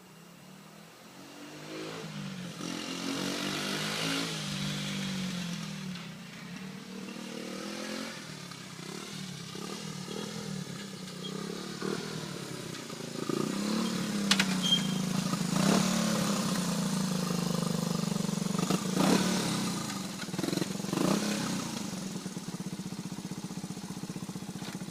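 Honda CT90 Trail's small single-cylinder four-stroke engine running while ridden, its pitch rising and falling as it revs and is shifted through the gears. It grows louder over the first couple of seconds, and a few sharp clicks come in the second half.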